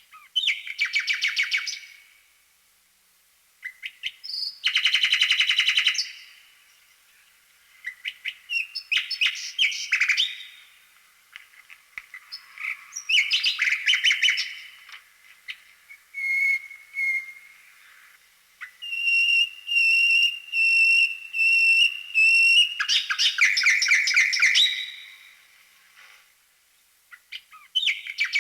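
A small songbird singing in repeated phrases of chirps, rapid trills and whistled notes, with short pauses between phrases.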